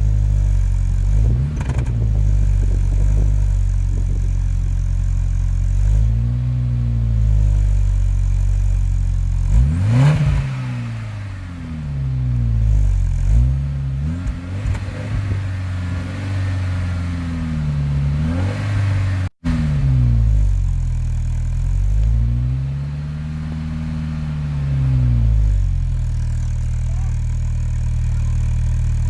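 Saab 9-5 Aero's turbocharged 2.3-litre four-cylinder idling through an aftermarket 3-inch downpipe and Jetex cat-back exhaust, revved again and again, each rev climbing and falling back to idle. A short sharp blip comes about ten seconds in, a quick run of revs follows, and a longer held rev comes near the end before it settles at idle.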